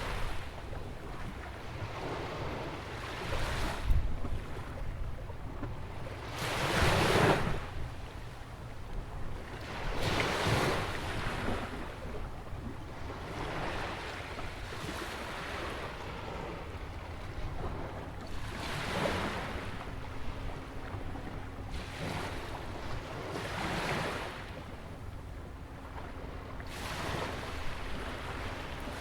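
Atlantic waves breaking and washing onto a sandy beach beside a jetty, one surge every three to four seconds, the biggest about seven seconds in, over a steady low wind rumble on the microphone.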